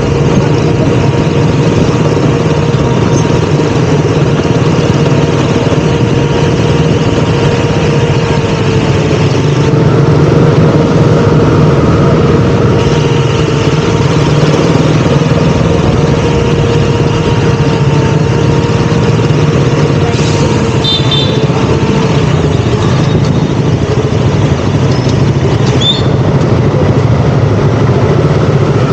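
KTM Duke 200's single-cylinder engine running steadily while riding, heard from the rider's camera, with a thin steady whine alongside that fades out about three-quarters of the way through.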